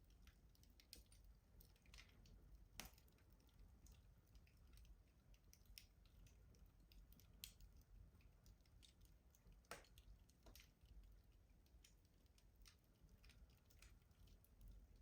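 Wood fire burning in a stove, crackling softly with irregular sharp pops and snaps; two louder pops stand out, about three seconds in and near ten seconds, over a faint low rumble.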